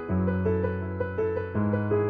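Background piano music: a held low note under a melody of short notes struck about twice a second, with the bass note changing about a second and a half in.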